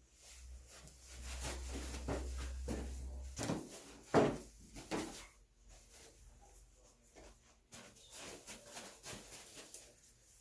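Blue Great Dane puppies scuffling in play: scattered soft knocks and rustles, the loudest about four and five seconds in, over a low hum that stops about three and a half seconds in.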